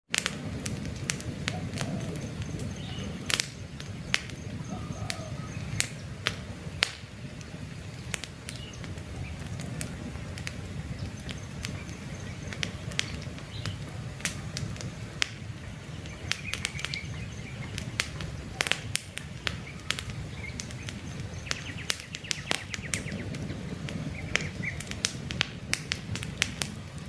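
Wood campfire crackling, with frequent irregular sharp pops over a steady low rumble of the flames, and birds chirping in the background.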